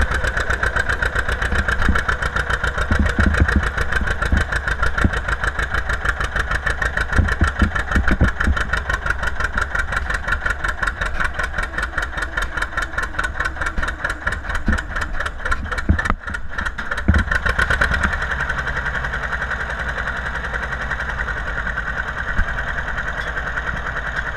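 John Deere 730 Diesel's two-cylinder diesel engine running with a rapid, even firing beat. About two-thirds of the way in it dips briefly, then settles into a steadier, slightly quieter run.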